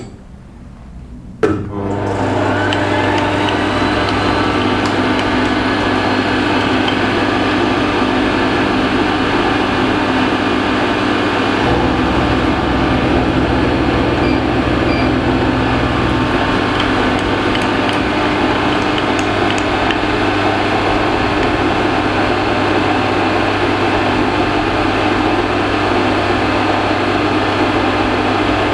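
An electric machine tool switched on with a click about a second and a half in, then running steadily with a constant hum; its low tone changes for a few seconds in the middle.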